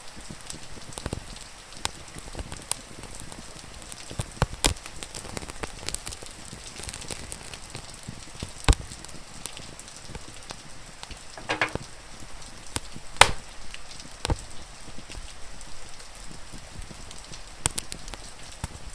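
Wood fire crackling with sharp irregular pops over a steady hiss of falling rain. A few pops stand out loud, and a brief pitched squeak comes about midway.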